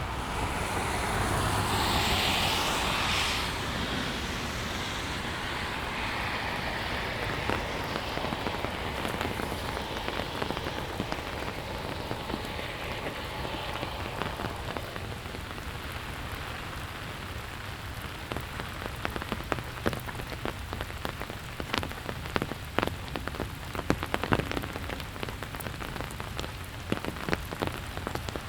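Steady rain falling on the street and surroundings. A brief louder swell of hiss comes about two seconds in, and in the second half sharp drops tick close by, many of them.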